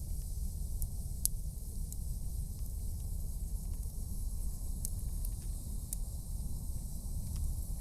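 Wood campfire burning: a steady hiss with scattered crackles and one sharper pop about a second in, over a continuous low rumble.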